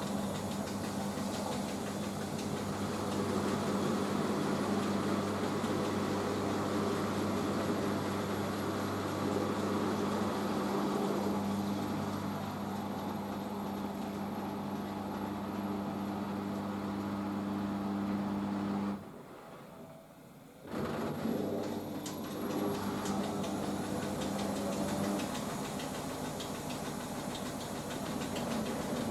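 Hoover H-Wash 500 washing machine in its rinse spin, its motor running with a steady hum as the drum spins. About two-thirds of the way in, the motor cuts out for about two seconds, then starts again and ramps back up.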